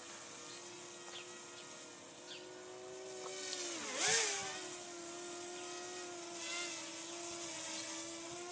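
Parrot quadcopter drone in flight, its propellers giving a steady whine. About four seconds in the pitch dips sharply and swings back up as the motors change speed, with a brief loud rush of noise.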